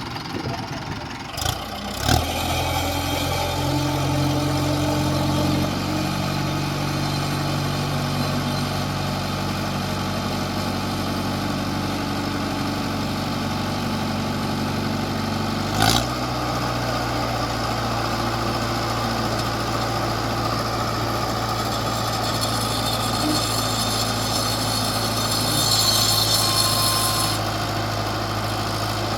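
Mahindra Arjun 555 tractor's diesel engine running steadily at idle. A sharp knock comes about halfway through, after which the engine note changes, and a hiss rises and falls near the end.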